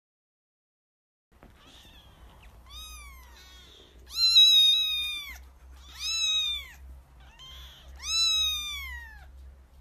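Very young grey kittens mewing: about five high, thin meows that rise and then fall in pitch. Three of them are long, near a second each, and the loudest comes about four seconds in. Silence for the first second and a half.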